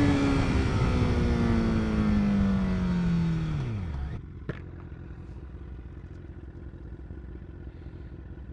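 Honda CBR1000RR's inline-four engine winding down as the bike slows, the revs falling steadily for about four seconds while the wind rush fades, then settling to a quieter low idle. A single sharp click follows just after.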